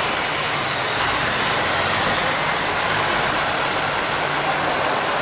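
Heavy rain pouring down, a dense steady hiss with a faint low hum underneath.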